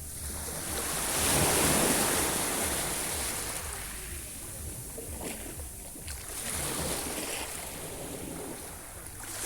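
Sea waves breaking and washing onto the shore: one large surge swells up about a second in and slowly fades, followed by smaller surges, the last one just at the end.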